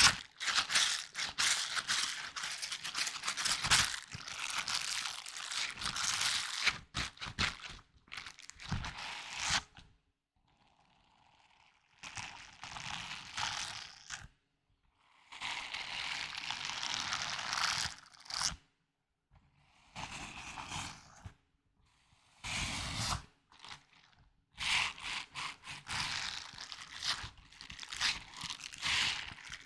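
Close-miked ASMR handling of a small object: crinkling and crunching in bursts of a few seconds, with short pauses between them.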